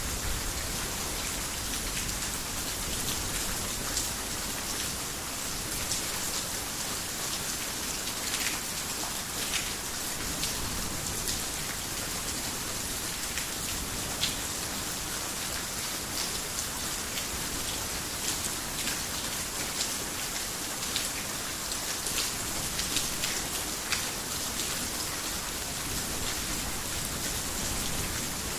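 Steady heavy rain falling on a roof, a continuous hiss with many individual drops ticking sharply through it.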